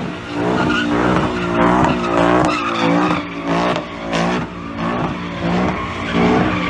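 A car's engine and tyres squealing in repeated surges, swelling and fading several times.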